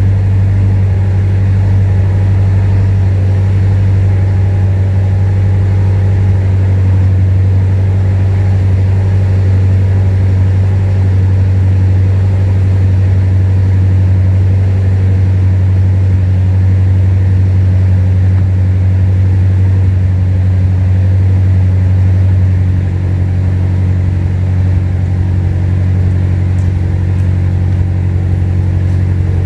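Built, supercharged Acura TSX engine running steadily through a J's Racing full titanium exhaust, a loud, even low drone. The note drops slightly in level about three quarters of the way through.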